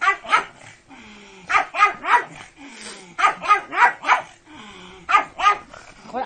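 A pug barking in quick bursts of two to four sharp barks, with pauses of about a second between the bursts.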